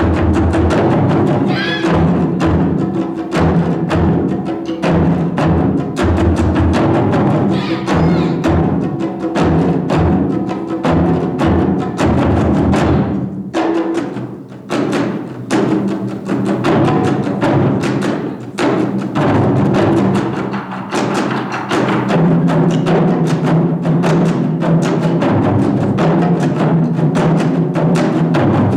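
Taiko drum ensemble playing live: dense, rapid strikes over deep resonant drum tones, thinning briefly about halfway through before the full ensemble drives on.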